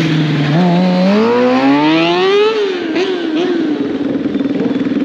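Stunt motorcycle engine running at steady revs, then revving up for about two seconds before the revs drop back and settle into a steady hold, a little higher than at the start.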